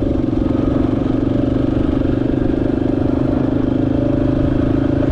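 Yamaha XT250's single-cylinder four-stroke engine running at a steady pace while riding, with an even, rapid pulse to its note.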